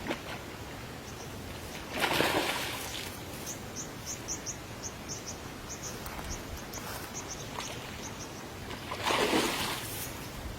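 Two brief water splashes about seven seconds apart, with a small bird chirping a quick series of short high notes in between.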